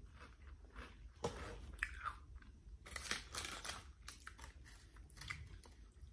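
Close-up chewing of Flamin' Hot Cheetos, a run of irregular crisp crunches that thin out toward the end.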